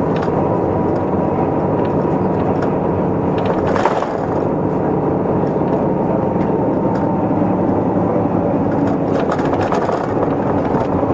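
Isuzu Erga Mio city bus driving, heard from inside the cabin: its four-cylinder diesel engine and road noise run steadily. A sharp knock or rattle about four seconds in, and a few light clicks near the end.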